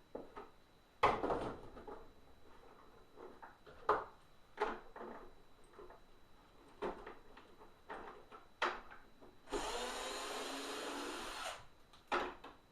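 Hard plastic housing parts of a Hoover SteamVac knocking and clattering as it is taken apart, with several sharp knocks. A power driver then runs at a steady speed for about two seconds, backing out one of its screws.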